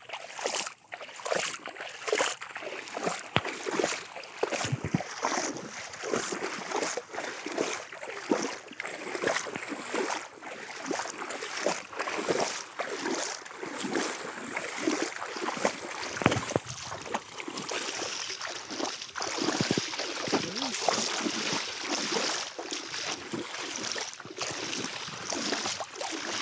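River water splashing and sloshing in irregular bursts during net fishing, over a steady hiss.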